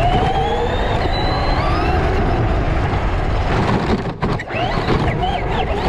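Electric motor of a fast RC car whining, its pitch rising and falling as it speeds up and slows, over a steady low rumble. The level dips briefly about four seconds in.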